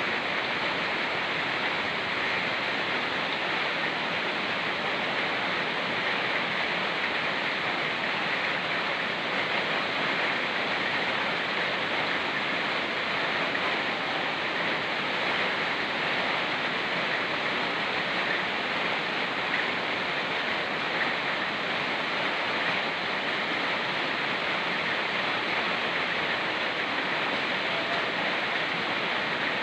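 Steady rush of a fast-flowing mountain river, mixed with falling rain.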